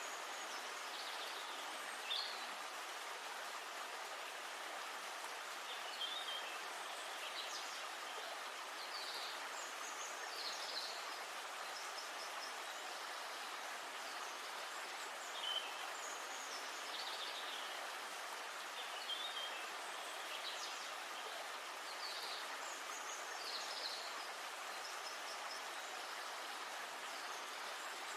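Steady rush of river water, with a songbird calling short, high, falling phrases every two seconds or so.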